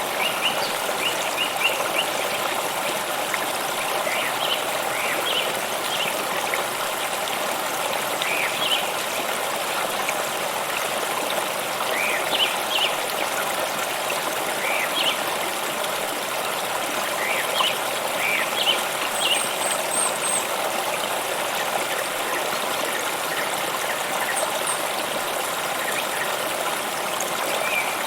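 A stream flowing with a steady rush, and birds chirping with short, scattered calls, most of them in the first two-thirds.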